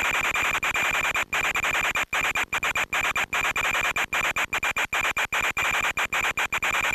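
Loud steady hiss of static with a constant high whine, broken by many brief dropouts that come thick and fast in the middle: the audio of the RC plane's FPV video link breaking up.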